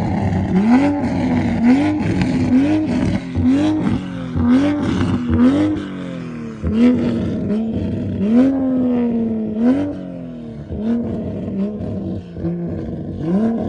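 Car engine revved repeatedly in quick blips, about one a second, each rev rising fast and then falling away, with one longer rev about eight seconds in and sharp crackles between the revs.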